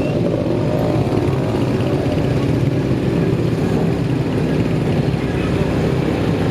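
Motorcycle engine running at a steady speed while riding, with street traffic noise around it.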